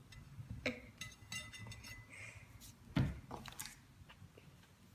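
Faint clicks and rustles of things being handled, with a soft thump about three seconds in.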